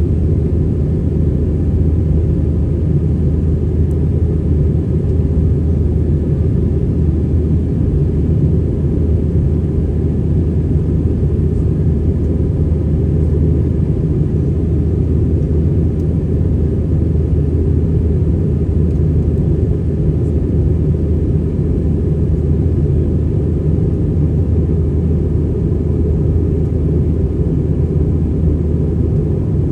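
Steady low rumble inside the cabin of an Airbus A320-200 in flight or on the ground with engines running: engine and airflow noise heard from a seat behind the wing, even and unchanging throughout.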